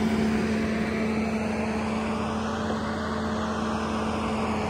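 Bobcat T86 compact track loader with a forestry rotor attachment running steadily: a constant engine and hydraulic drone with an unchanging hum.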